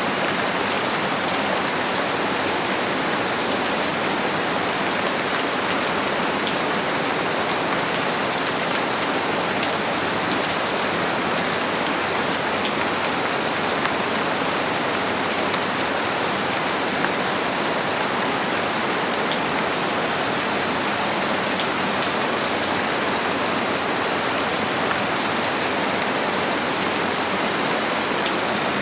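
Steady heavy rain falling, an even hiss with many fine drop patters.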